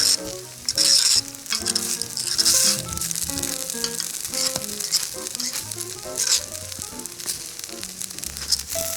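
Takoyaki sizzling in a cast-iron takoyaki pan, the hiss swelling and easing in surges, over background music with a quick melody of short notes.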